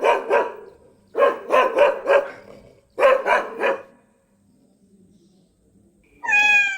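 Dog barking in three quick runs of three to five barks each, then a pause. A cat's meow begins near the end.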